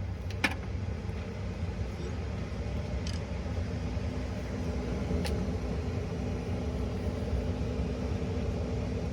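Truck engine running steadily, a low rumble heard from inside the cab, with a few light clicks of handling on top.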